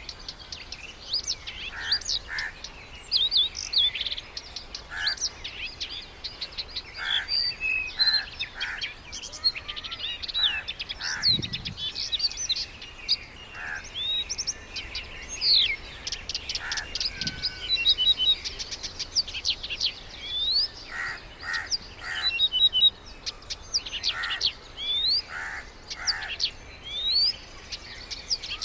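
Several birds calling at once: a busy chorus of short chirps, quick rising whistles and rapid trills.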